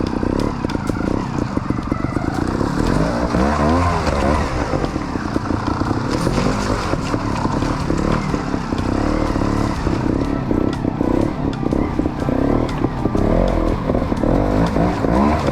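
Trials motorbike engine revving up and down in repeated short blips as the bike is ridden slowly through an obstacle section, with scattered clatters and knocks.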